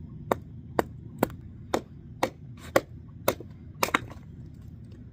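Kindling being chopped: a blade striking wood in quick, even blows, about two a second, roughly eight strikes that stop about four seconds in.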